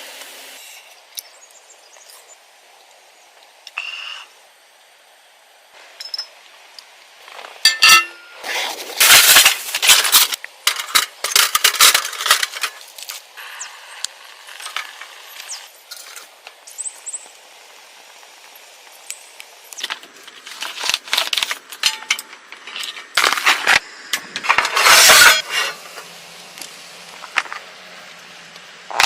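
Clinks and knocks of cookware and utensils being handled, in two busy spells with quieter stretches between.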